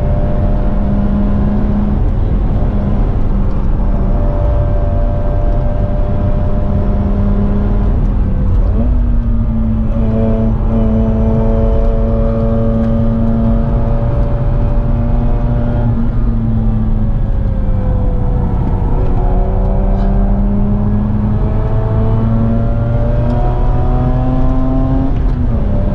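Mazda RX8's two-rotor rotary engine pulling hard at speed, heard from inside the cabin over a low road rumble. The engine note climbs and falls with gear changes: a step about a third of the way in, a slide down in pitch about two-thirds through, then a long climb and a drop near the end.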